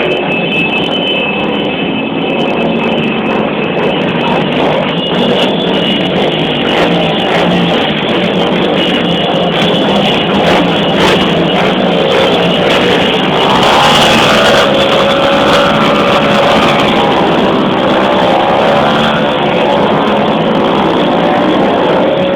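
Motorcycle engines running, mixed with music.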